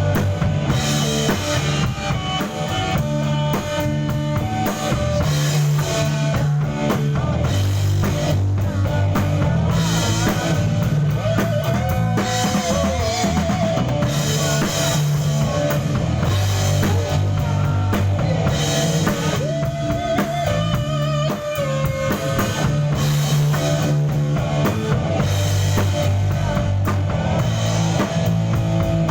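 A band playing a rock-style song: drum kit with bass drum, bass line and guitar. A wavering melody line comes in twice over the steady beat.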